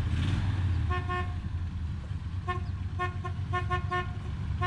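Vehicle horn honking in a series of short toots, two near the start and then a quick run of several, over a steady low engine rumble.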